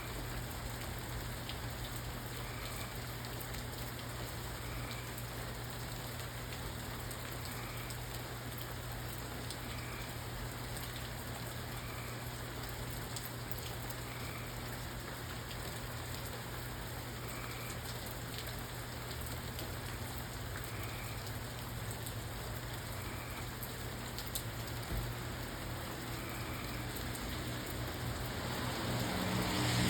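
Steady rain falling, an even hiss over a low steady hum. A faint soft note repeats about every two seconds, and near the end the noise swells.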